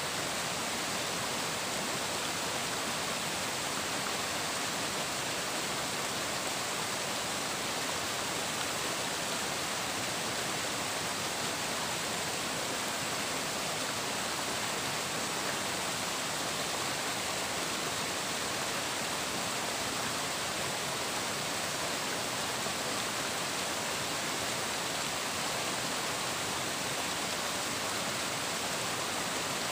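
Flowing water rushing steadily: an even, unchanging hiss with no calls or other events over it.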